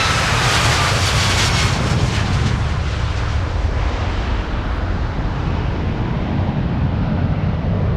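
Boeing 737-10 jet engines (CFM LEAP-1B turbofans) at high thrust on a departure: a loud jet roar with a faint falling whine. After about three seconds the hiss fades, leaving a steady low rumble.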